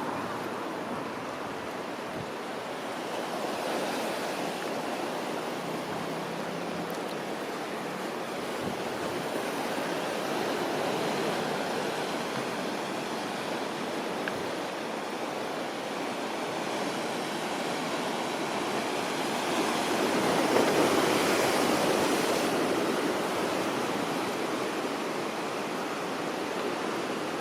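Ocean surf washing steadily against the shore, with one louder swell of breaking waves about twenty seconds in.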